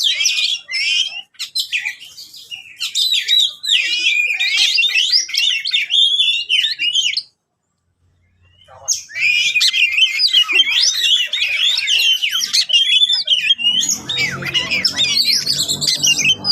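Oriental magpie-robin (kacer) singing a loud, fast, varied run of whistles and chirps in aggressive territorial song, stopping for about a second midway before starting again. A low hum comes in underneath near the end.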